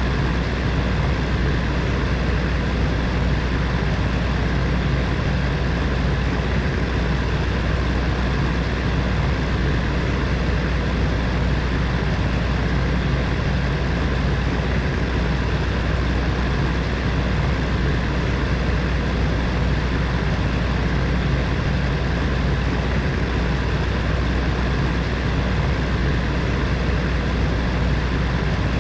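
Space heater's electric fan running steadily: a constant low hum with an even rush of air.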